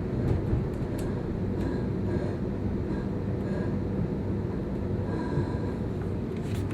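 Sydney suburban electric train running: a steady low rumble with a few faint short squeals and clicks.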